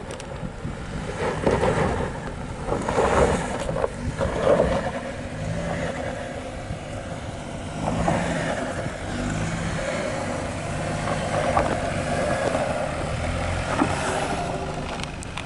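Off-road SUV driving slowly over a rough trail: engine running under load with tyre and body noise, surging louder several times in the first few seconds.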